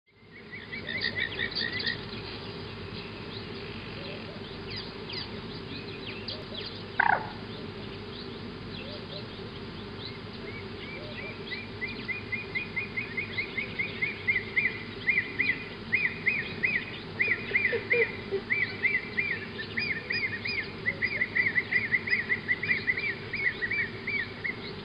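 Wild birds chirping, with many short calls repeated rapidly from about halfway on. A single loud, brief call falling in pitch comes about a quarter of the way in, over a steady low hum.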